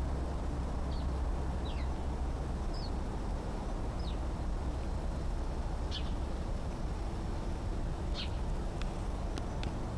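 Bird chirping: about six short, high notes, several sliding downward, a second or two apart, over a steady low rumble.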